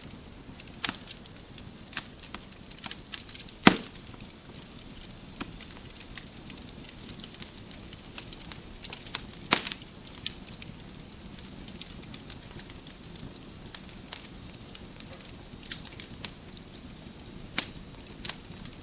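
Wood fire crackling in a fireplace: a soft steady hiss of burning logs with scattered sharp pops and snaps, two louder pops about four and nine and a half seconds in.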